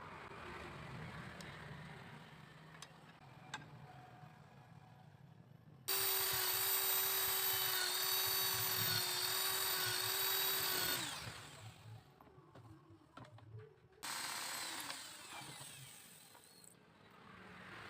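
Light handling noise with a few knocks, then a power tool runs at a steady high-pitched whine for about five seconds before winding down. A shorter, fading burst of tool noise follows near the end.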